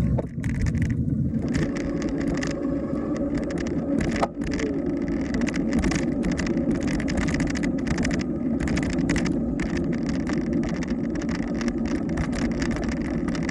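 Riding noise from a Schwinn Hurricane electric bike under way: a steady rumble with short crackles throughout and a brief dip about four seconds in.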